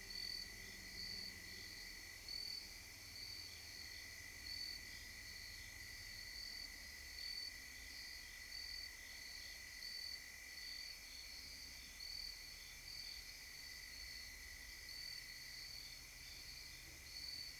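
Crickets chirping: a steady high trill with a higher, regularly repeating chirp over it, under a faint low rumble.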